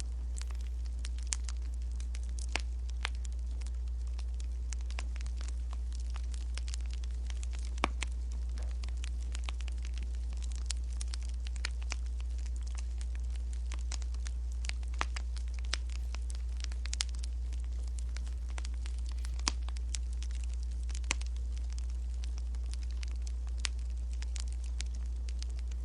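Wood fire crackling, with irregular sharp pops, a few of them louder, over a steady low hum.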